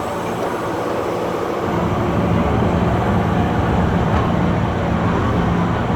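Diesel engine of a Caterpillar 992G wheel loader running under work, a steady engine note that grows louder and heavier about two seconds in.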